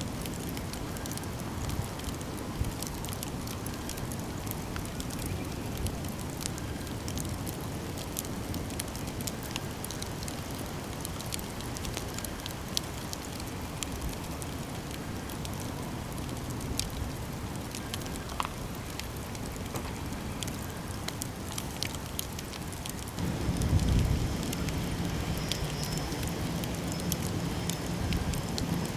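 Campfire burning, with many scattered sharp crackles and pops over a steady low rush of the flames. About 23 s in, a louder low rumble with a steady low hum joins and carries on.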